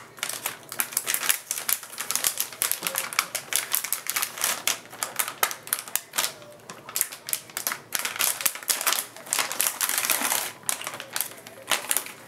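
Plastic packaging of a graphics card crinkling and crackling as it is handled and peeled: a dense, irregular run of sharp crackles.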